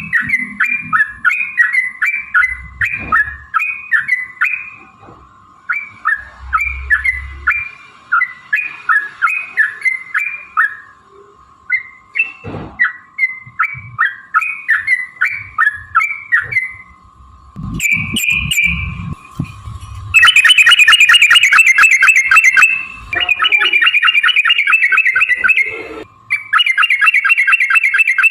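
Yellow-vented bulbul singing: phrases of short, repeated bubbling chirps, about three or four a second. About two-thirds of the way through they give way to a long, fast rattling trill, the 'ropel' run, which is louder and breaks off twice. A faint steady tone runs beneath.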